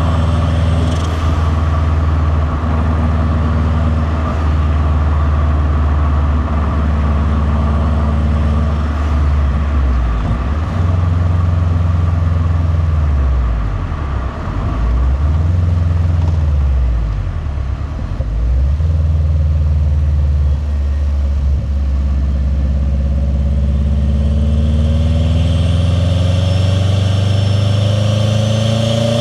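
Turbocharged 2.0-litre boxer four of a modified 2001 WRX STi, with a catless downpipe and titanium cat-back exhaust, running at low revs with a steady rumble. Its pitch dips and rises a few times midway. Near the end the revs climb steadily as the car accelerates.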